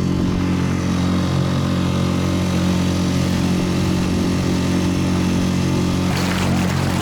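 Small dinghy outboard motor running steadily at a constant speed, with water rushing noise coming in near the end.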